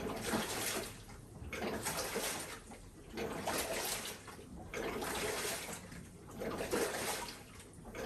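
Hitachi BeatWash BW-9WV top-loading washing machine agitating: water sloshing and churning in surges every second and a half or so as the pulsator turns back and forth. The drive runs quietly, its drive unit freshly replaced.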